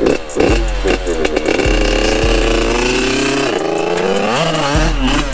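Yamaha YZ85's two-stroke single-cylinder engine being revved: quick revs that fall back, then a held high rev, a drop about four seconds in and another quick rev near the end.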